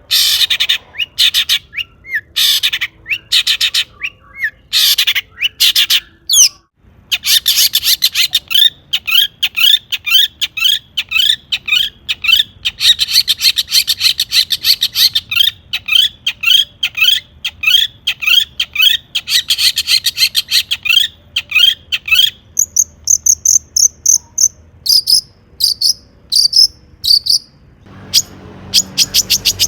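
Long-tailed shrike singing hard: quick runs of sharp, repeated chirps, then a long fast trill of scratchy notes through the middle, then thinner, higher notes near the end.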